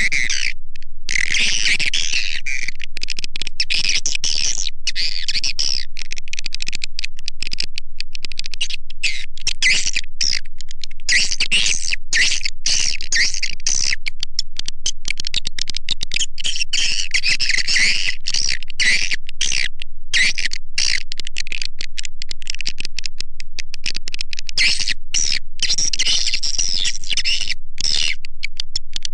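Swiftlet lure call recording: a dense, unbroken chatter of high-pitched edible-nest swiftlet chirps and twitters. It is played to draw swiftlets into a swiftlet house to roost and nest.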